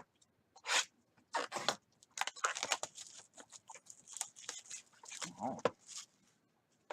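Trading cards and their packaging being handled: a quick run of scratchy rustles, slides and small clicks.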